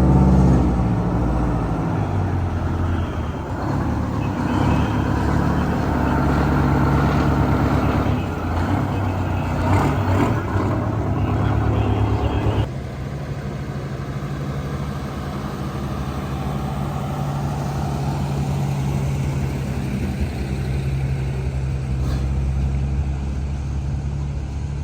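Vintage truck engines running as the trucks drive by. About halfway through, the sound changes suddenly to a quieter, steadier low engine note.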